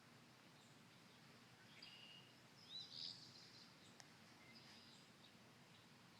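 Birds chirping faintly. One gives a short rising note and then a quick burst of notes about three seconds in, with scattered fainter chirps around it. A single faint click comes about four seconds in.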